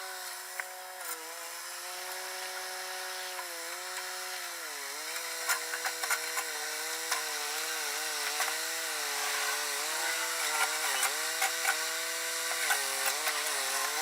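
Two-stroke chainsaw running at high revs, its pitch dipping again and again as it bogs under load in the cut and then recovering. Short sharp clicks come through from about five seconds in.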